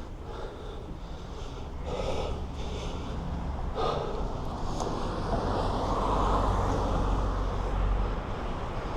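A cyclist breathing hard in heavy puffs while pedalling up a steep hill. From about halfway a steady rush of wind and road noise builds under the breathing.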